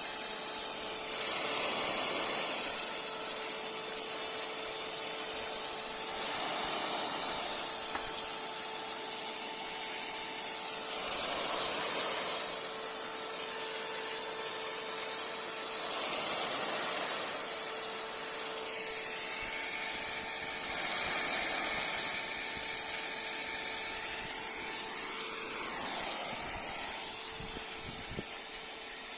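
Rain gun irrigation sprinkler spraying water: a steady hiss that swells and fades about every five seconds, over a faint steady hum.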